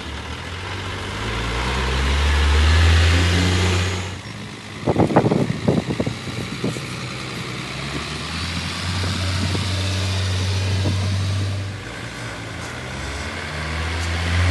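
Truck engine pulling hard, its pitch rising for about four seconds and then dropping suddenly as it shifts gear, with a cluster of short sharp knocks or toots about five seconds in. It then runs steadily and begins to climb again near the end.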